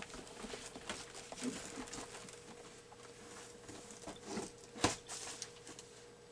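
Small clicks, taps and rustles of craft supplies being handled on a work table while eyelets are fetched, with one sharper click about five seconds in.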